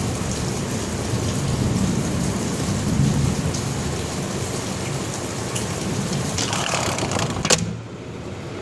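Heavy rain with thunder rumbling low and steady, then a single sharp thunder crack near the end, after which the sound drops off abruptly.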